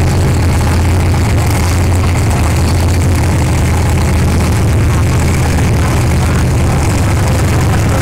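Heavy engines running steadily at idle: a loud, unchanging low drone.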